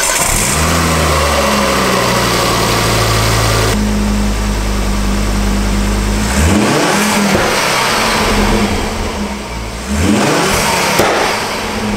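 Ford Focus ST Mk2's turbocharged 2.5-litre five-cylinder engine running at a steady idle just after being started cold. It is revved twice, about six and ten seconds in, each rev rising and falling back.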